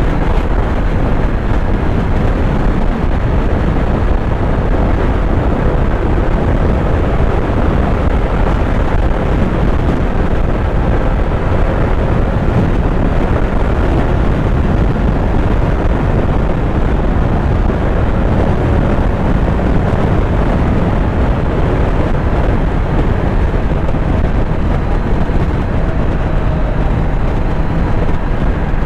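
Kawasaki Z900's inline-four engine running at a steady cruise under heavy wind rush, its engine note rising slightly near the end.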